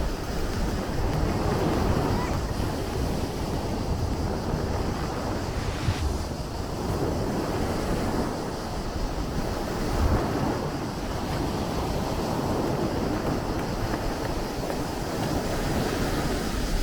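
Sea surf washing in and out in steady swells, with wind buffeting the microphone.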